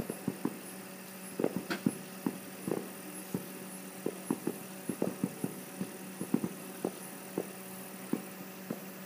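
Fireworks bursting across the water: an irregular run of short, sharp pops and bangs, about two or three a second with gaps between, over a steady low hum.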